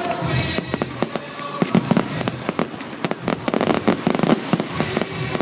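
Fireworks going off in quick succession: a dense string of sharp bangs and crackles, several a second.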